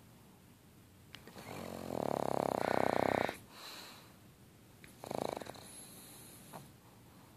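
Sleeping pug snoring: a long, loud snore about two seconds in, then a shorter, quieter one about five seconds in, with soft breathing between.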